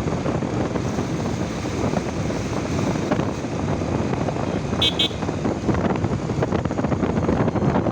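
Wind buffeting the microphone over road and traffic noise during a motorcycle ride. About five seconds in, a vehicle horn gives two short toots close together.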